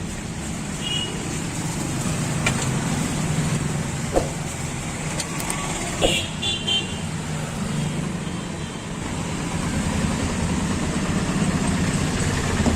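Street traffic: a steady rumble of passing vehicles, with short horn toots about a second in and again around six seconds, and a few sharp clicks.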